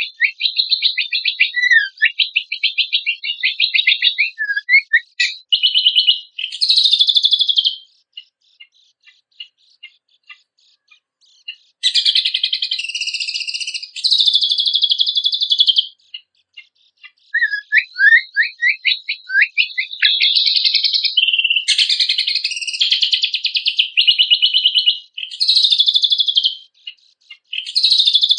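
Cucak kombok (kecial kombok) songbird singing a rich competition song: rapid chattering runs and trills with quick sweeping notes, broken by a few seconds of scattered single chips partway through before the full song resumes.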